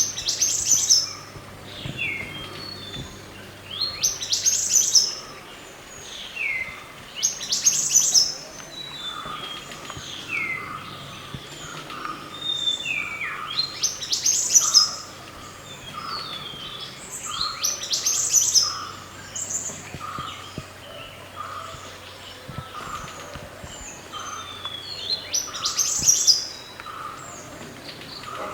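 Wild songbird known in Indonesia as mantenan gunung singing loud, high, sweeping phrases that repeat every few seconds. Beneath them, from about halfway, runs an even series of lower, short chirps at about two a second.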